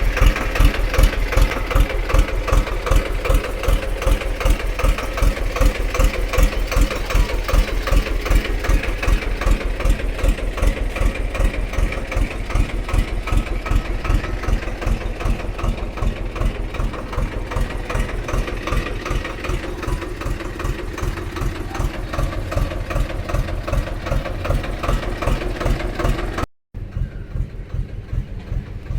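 Mini tractor's diesel engine idling with an even, rapid knocking beat. It drops out for an instant near the end and comes back a little quieter.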